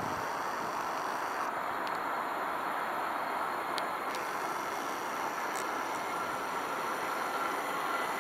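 A train running some way off: a steady rushing noise with a faint, high, steady tone, unchanging in loudness.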